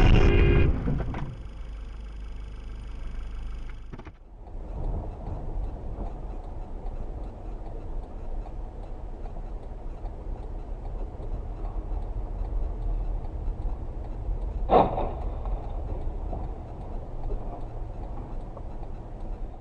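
Car on the move heard from inside, with steady low road and engine rumble. A single sharp knock comes about 15 seconds in. The sound changes abruptly about a second in and again about four seconds in as one recording gives way to the next.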